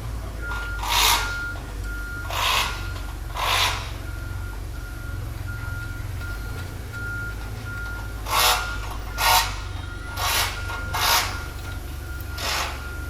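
Eight short rasping, scraping strokes at irregular intervals, over a steady low hum. A faint high tone sounds on and off in short dashes.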